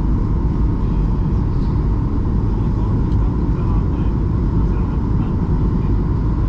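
Steady rumble of a Boeing 737-800's jet engines and rushing air, heard inside the passenger cabin, with a faint steady hum riding over it.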